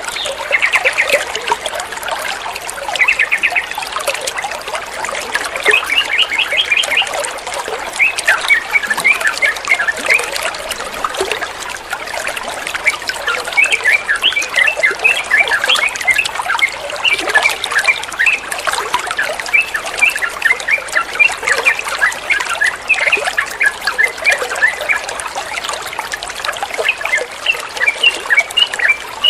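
Water trickling steadily while sooty-headed bulbuls (trucukan) chirp throughout in quick runs of short, high notes.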